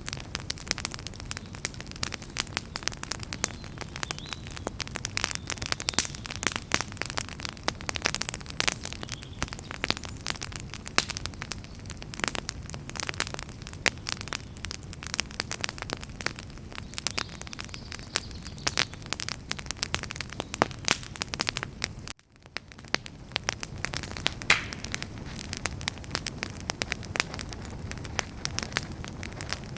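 Campfire of burning firewood crackling, a dense stream of sharp pops and snaps over a low rumble. The sound cuts out for an instant about two-thirds of the way through and fades straight back in.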